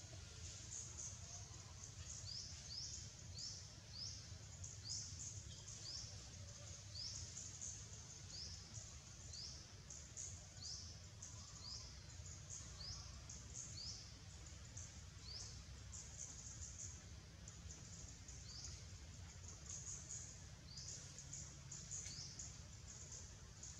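Faint, high, short upward chirps repeated one after another, about one every half second to a second, over a steady low outdoor rumble.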